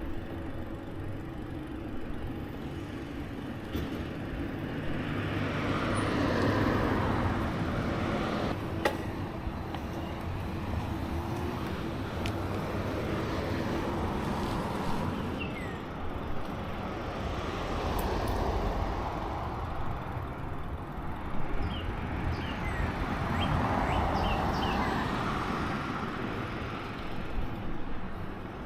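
Road traffic: several vehicles pass one after another, each a slow rise and fall of tyre and engine rush over a steady background. A few short high chirps come in the second half.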